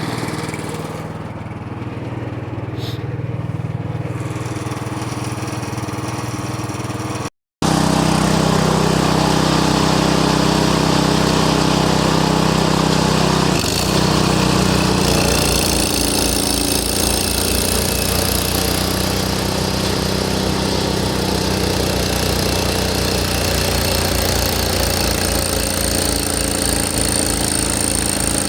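Snowblower's 6.5 hp, 208 cc single-cylinder Power Fist engine running steadily. After a brief cut about seven seconds in it runs louder as it works.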